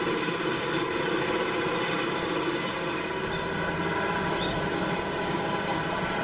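Engine of heavy farm machinery running steadily, with a change in tone about three seconds in as the upper hiss fades.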